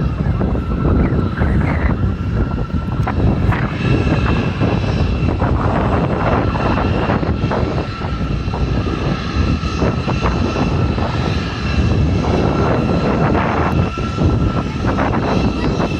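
Jet airliner's engines running loud: a deep rumble with two steady high whining tones on top, as the Delta jet takes off.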